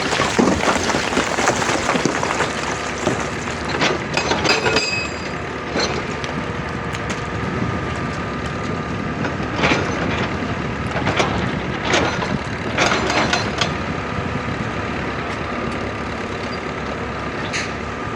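Excavator's diesel engine running steadily under load, with irregular scrapes and knocks as it digs into earth and rock.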